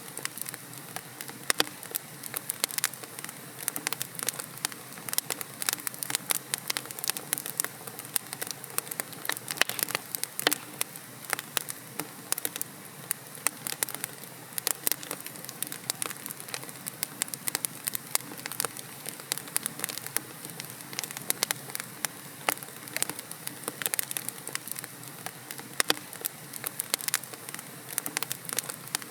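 Wood logs burning in a fireplace, crackling with dense, irregular sharp pops over a steady soft hiss.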